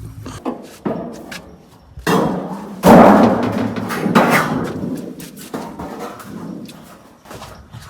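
A series of heavy thuds or knocks, the loudest about three seconds in, each fading away over a second or so.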